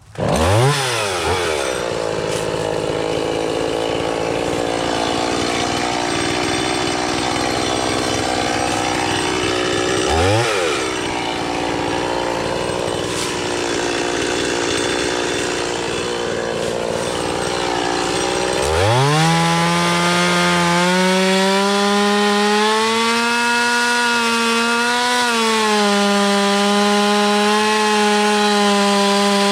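Chainsaw cutting into a green ash trunk to fell it, revving up sharply at the start. Its pitch dips and recovers about ten seconds in, then climbs near the twenty-second mark to a high, steady pitch that wavers slightly.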